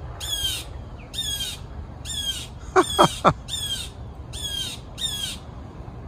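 A bird giving short, harsh scolding calls over and over, about one a second: alarm calls at a person near its young. Three quick, louder falling notes break in about halfway through.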